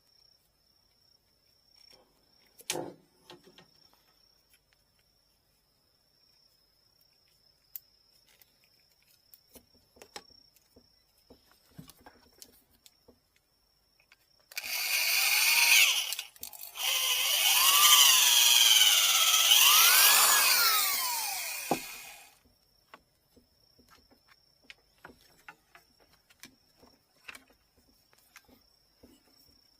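Electric drill boring into a bamboo rod section to clear out a node: a short run, a brief stop, then about six seconds more, its pitch rising and falling as the bit bites. A single knock a few seconds before.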